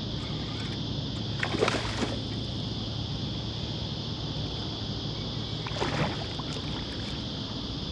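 Water splashing twice, briefly, as a small hooked jewfish (mulloway) thrashes at the surface while being brought to the boat, over a steady hiss and low hum.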